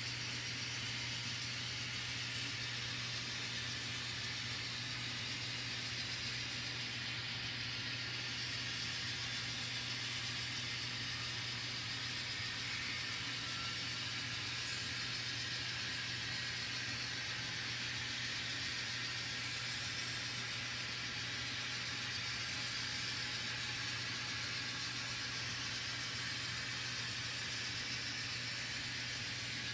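N scale model diesel locomotives running, their ESU LokSound decoders playing a steady diesel engine sound with an even hiss over a low hum.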